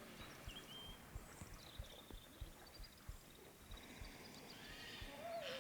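Faint outdoor background with scattered small bird chirps, and near the end a long, wavering animal call begins.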